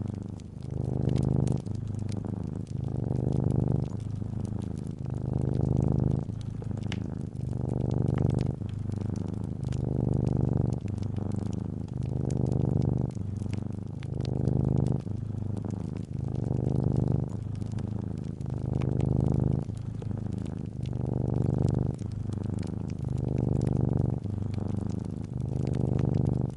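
Domestic cat purring close up, a low rumble that swells and fades about once a second with each breath in and out, over faint crackling from a wood fire.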